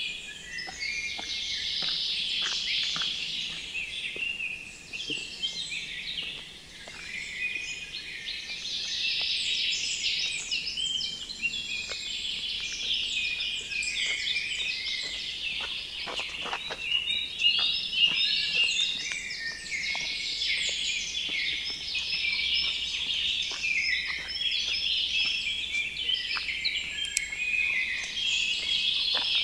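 Dense chorus of many small birds chirping and twittering without a break, their short notes overlapping one another.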